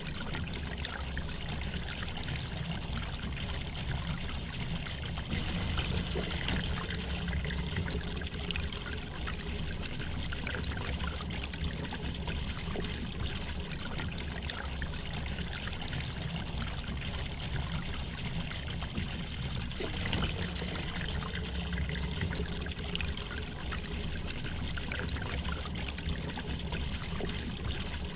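River water flowing and trickling steadily over stones, an even rushing with a low rumble beneath.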